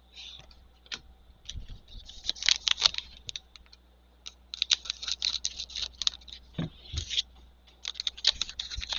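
Trading cards being handled and shuffled: quick rustles and clicks of card stock, in three groups with short pauses between.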